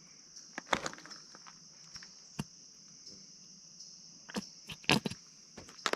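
Insects chirring steadily in the background, with a handful of sharp clicks and taps from hands at work, the loudest a little under a second in and about five seconds in.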